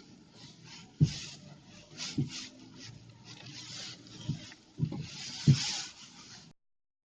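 Irregular dull thumps, about five of them, over an uneven rustling hiss, cutting off suddenly about six and a half seconds in.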